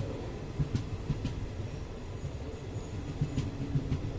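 Passenger train running on the rails: a steady low rumble broken by irregular knocks.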